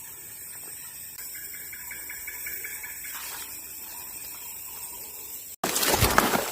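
Steady, quiet hiss of outdoor ambience with faint thin high tones over it; about five and a half seconds in it cuts out abruptly and gives way to a louder rushing noise.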